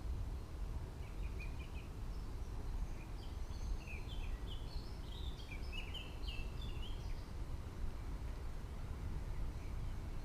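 Birds chirping in a run of short, quick high notes lasting several seconds, over a steady low rumbling background noise.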